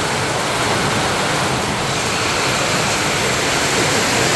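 Heavy rain pouring down onto awnings and the wet street, a steady loud hiss.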